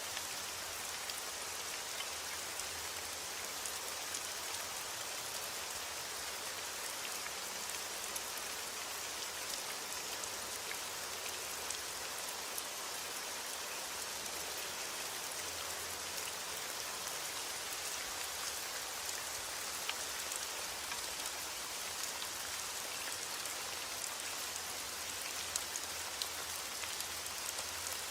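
Steady rain falling, a dense even hiss with many fine drops pattering on a surface; no thunder.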